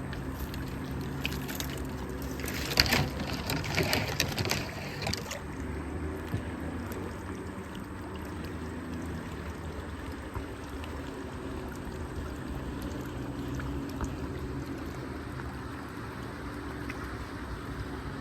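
Water splashing and trickling on a river. A cluster of louder splashes comes about three to five seconds in, over a steady low hum.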